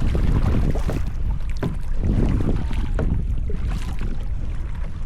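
Kayak paddle dipping and splashing in the water at each stroke, a few strokes a second and a half apart, over a steady rumble of wind on the microphone.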